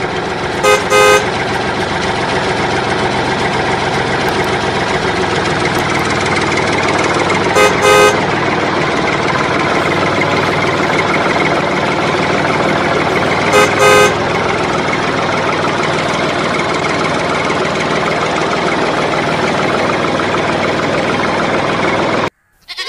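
Tractor engine running steadily, with a double toot of a horn three times: about a second in, about eight seconds in and about fourteen seconds in. The engine sound cuts off suddenly near the end.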